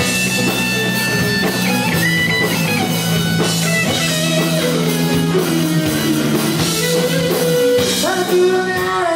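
Rock band playing live in an instrumental break: a guitar lead of held, sliding notes over bass and drum kit.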